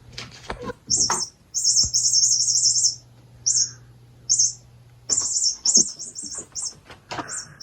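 Electronic bird-sound chip in a cat wand toy chirping in quick high runs, stopping and starting, with light knocks and rattles from the toy being handled.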